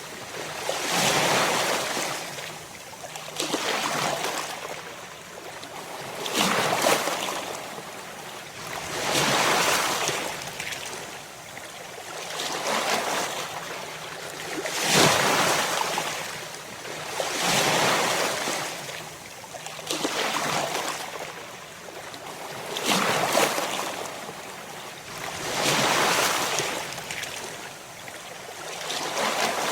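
Ocean waves breaking and washing on a shore, one surge of surf every two and a half to three seconds, each swelling and then fading.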